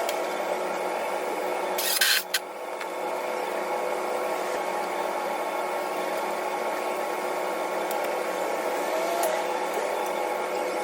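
Steady whirring hum of a running motor, even throughout, with a short loud hissing burst about two seconds in.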